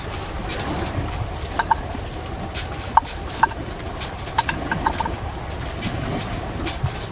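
Cooking on a wood stove: irregular crackling with a few short, light metallic clinks, as carrots are put to fry.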